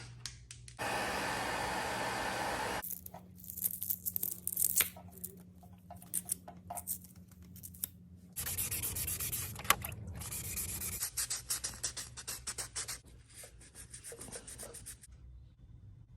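Sanding and rubbing on the plastic grille parts: many short scraping strokes, broken by two steady hissing stretches about a second in and about eight seconds in.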